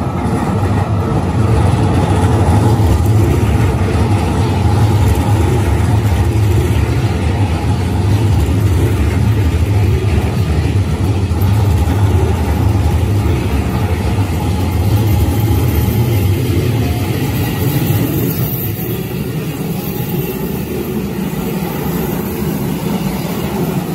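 Hokuso Railway 7500 series electric train running past close by, with a loud, steady low sound of motors and wheels on the rails that eases slightly in the last few seconds.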